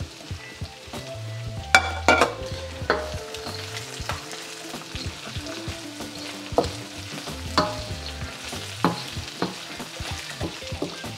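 Pork belly frying and sizzling in a stainless steel wok with sautéed onion, garlic, chili and shrimp paste, stirred with a wooden spoon that knocks against the wok now and then.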